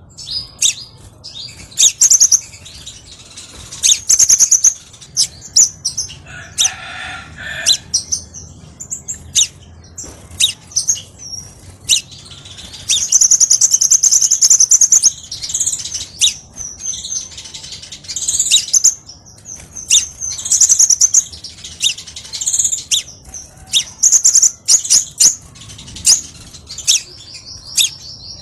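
Crimson sunbird (kolibri sepah raja) singing: a rapid string of sharp, very high-pitched chirps and short trills, with a long fast trill about halfway through.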